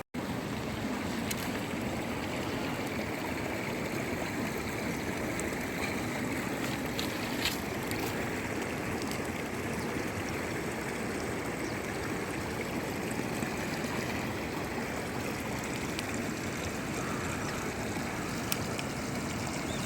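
Steady rushing of flowing river water, with a few faint clicks now and then.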